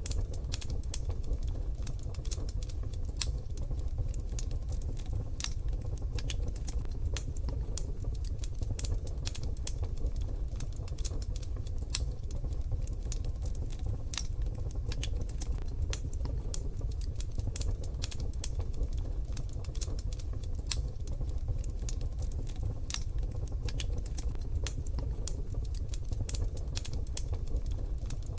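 Wood fire in a wood-burning stove crackling: a dense, irregular run of sharp pops and snaps over a steady low rumble.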